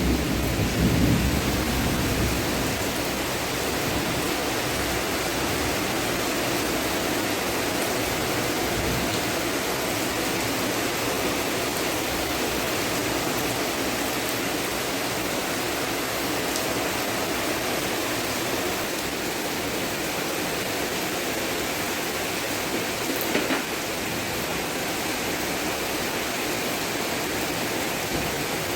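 Steady heavy rain, an even hiss, with the last of a thunder rumble dying away in the first second.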